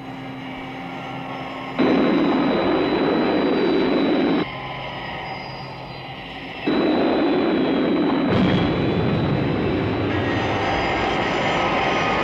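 Jet engine roar of Thunderbird 1 with a thin high whine, as the craft descends to land. It cuts abruptly between louder and quieter levels several times.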